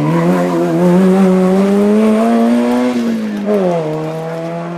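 Race car engine at high revs, its pitch climbing slowly, then dropping about three seconds in and holding lower.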